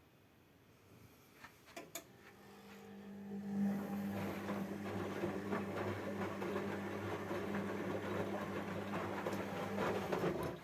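A few clicks, then a washing machine's motor starts up with a steady hum, building over a second or so, runs evenly and stops suddenly near the end.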